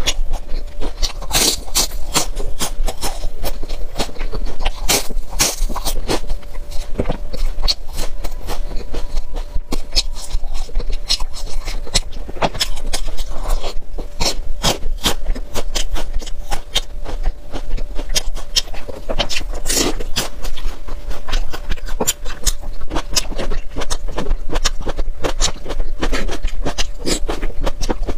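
Close-miked eating sounds through a lavalier microphone: a continuous, rapid stream of chewing clicks and mouth smacks as soft green-coated balls are chewed, with no speech.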